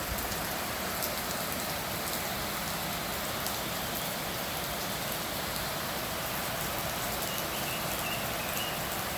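Steady rainfall: an even hiss with scattered sharp ticks of individual drops striking.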